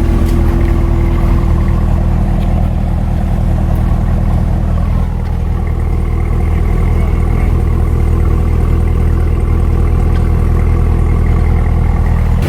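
Camaro ZL1's supercharged V8 idling steadily, its exhaust note holding an even low pitch throughout.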